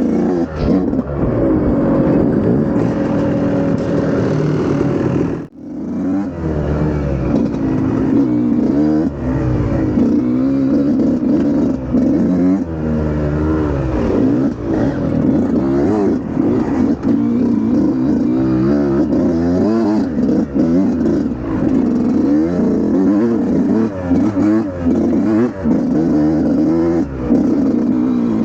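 Dirt bike engine being ridden hard, its pitch rising and falling continually as the throttle is worked on and off, with a brief drop-out about five and a half seconds in.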